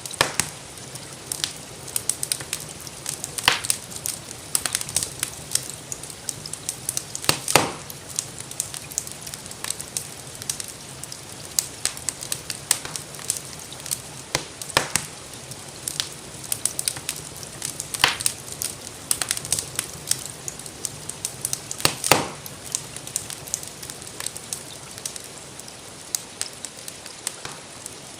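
Wood fire crackling in a fireplace: irregular sharp crackles and a few louder pops over a steady soft hiss, which may hold gentle rain.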